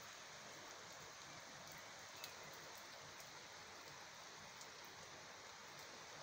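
Heavy rain falling steadily: an even hiss with a few faint ticks scattered through it.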